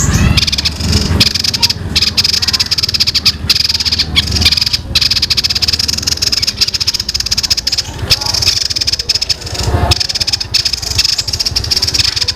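Songbird singing a long, very fast rattling trill of rapid-fire notes, the 'tembakan' (machine-gun) style of song used as masteran for training cage birds, with a few brief breaks.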